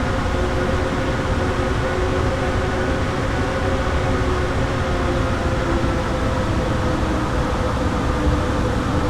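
Airbus A321neo's Pratt & Whitney PW1100G geared turbofan engines running steadily during the landing: an even roar with a few steady humming tones.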